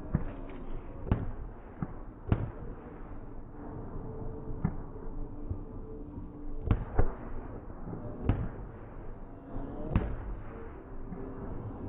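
Fireworks going off in sharp, irregular bangs, about nine over the stretch, spaced a second or two apart, over a steady background rumble.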